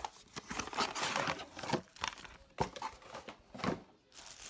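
Crinkling and rustling of something being handled, in irregular bursts with a few sharper clicks.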